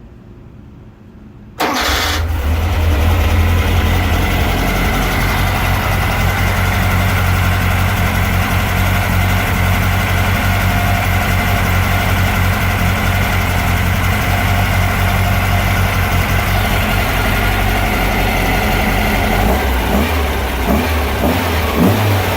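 A 2054 cc air-cooled Volkswagen flat-four, freshly built to stage 1, cranks briefly about a second and a half in, catches at once and settles into a steady, even run. Near the end the running turns lower and less even.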